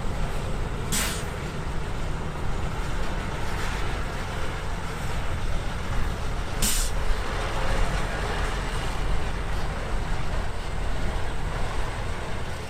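Heavy diesel earthmoving machinery running steadily, bulldozers and a dump truck, with two short sharp air-brake hisses, one about a second in and one near seven seconds in.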